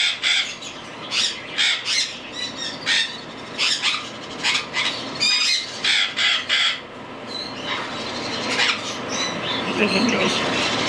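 Cockatiel chicks about a week old giving short, raspy begging calls during hand-feeding, repeated about twice a second. The calls are loud for the first seven seconds, then fade and become fainter.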